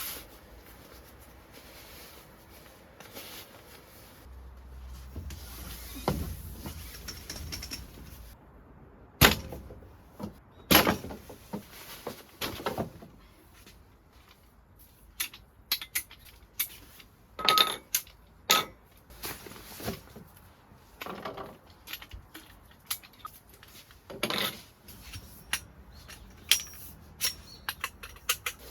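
Irregular clicks, clacks and knocks of small objects being handled and set down, with a few louder knocks.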